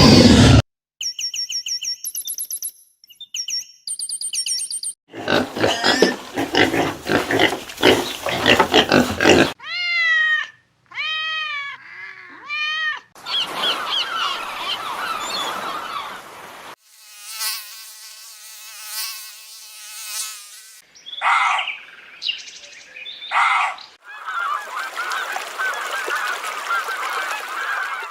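A string of different animal calls, one short clip after another: high-pitched bird chirping at first, then a series of honking fowl calls, then other animal cries.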